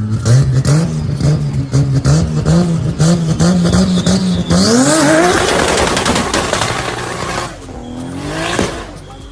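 Car engine with a loud exhaust running steadily at low revs with rapid crackling pops. It is then revved sharply about four and a half seconds in, with a rush of noise that dies away near the end.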